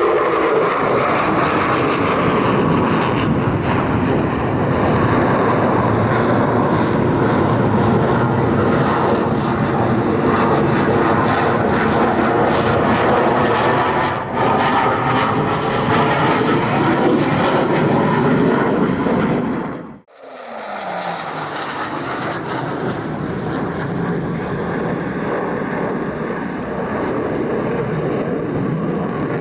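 Twin-engine stealth fighter jet flying past, its engines producing a loud, continuous roar with a slowly sweeping, phasing tone. About two-thirds of the way through it cuts off abruptly and a second, somewhat quieter jet pass follows, with a falling pitch.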